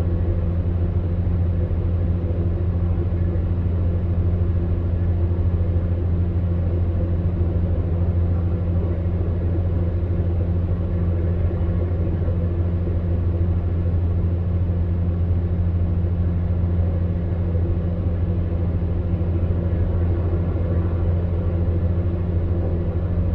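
Electric fan heater running steadily: a constant low hum with a few fainter steady tones over an even rush of air, unchanging throughout.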